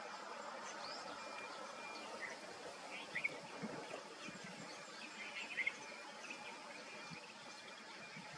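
Birds chirping in short calls over a steady background hiss. The loudest calls come about three seconds in and again past five seconds.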